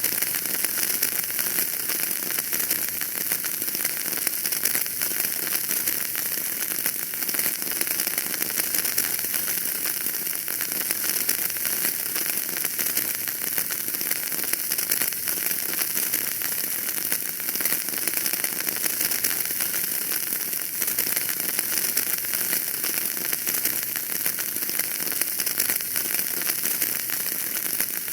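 Wood fire burning in a fireplace, crackling and hissing steadily, with a dense stream of small pops.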